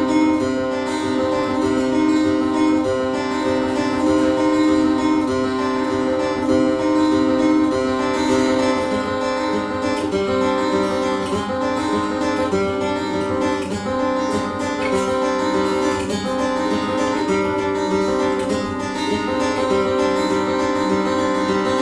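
Acoustic guitar playing a live instrumental piece, with notes left ringing over a steady low drone.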